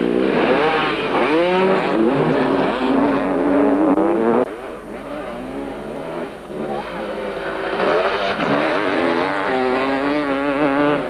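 Several motocross motorcycle engines revving, rising and falling in pitch as the bikes race. The sound drops suddenly about four and a half seconds in, then builds again near the end.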